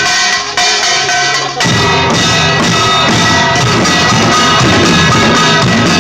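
Live band music with a drum kit playing. The low end drops out briefly, and the full band with bass and drums comes back in about a second and a half in.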